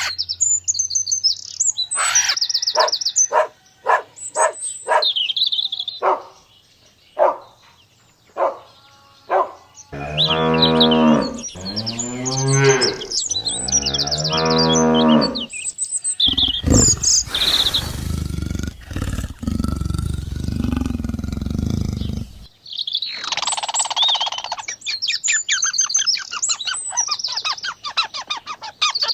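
A run of animal calls: high bird chirps at the start, then a cow mooing three long times, then a harsh, rasping call lasting several seconds, and bird chirping again near the end.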